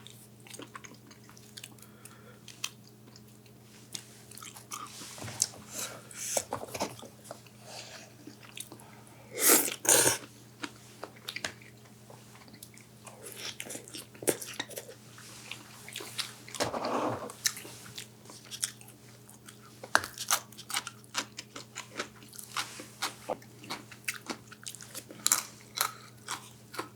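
A person eating close to the microphone: chewing and biting with crisp crunches and wet mouth clicks. There are louder noisy bursts about ten seconds in and again a few seconds before the two-thirds mark.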